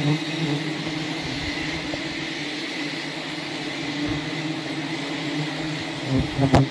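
Steady buzzing drone of a dense swarm of wild honeybees around their hive, with a few knocks and a sharp click near the end.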